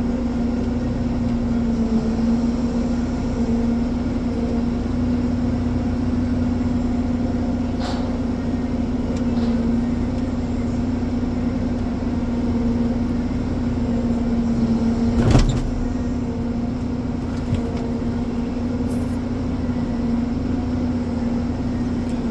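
Ponsse Elephant forwarder's diesel engine running at a steady speed. There are a few light clicks, and a single clunk about fifteen seconds in.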